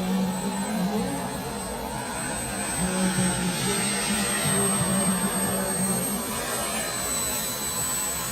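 Miniature turbine engine of a radio-controlled model jet running, a steady high-pitched whine over a broad rushing noise. A lower hum comes and goes underneath.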